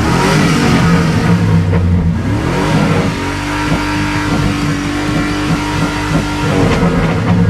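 Chevy 5.3 L V8 revved through a Magnaflow exhaust: the engine note climbs, holds high and steady at around 6000 RPM for several seconds, then drops back near the end. The revving is an attempt to free up a stuck lifter, which is still ticking.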